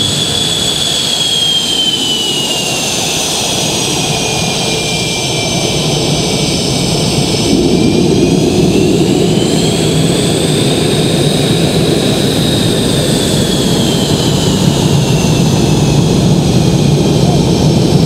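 Twin General Electric F404 turbofan engines of a CF-18 Hornet fighter jet running loud, a high turbine whine over a steady roar. The whine glides down, then rises and falls again as the roar grows louder about halfway through.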